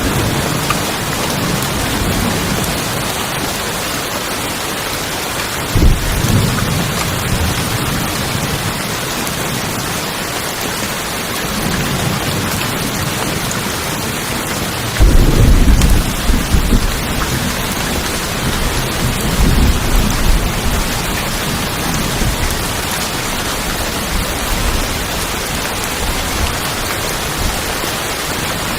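Heavy rain falling steadily on tin roofs, with thunder: a sudden clap about six seconds in, a louder clap about halfway through, and more rumbling a few seconds after it.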